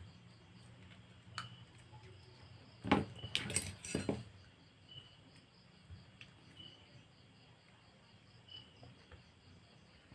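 A cricket chirping faintly in short, evenly spaced chirps under a low hum, with a single click and then a brief burst of clattering clicks from small hard objects being handled about three seconds in.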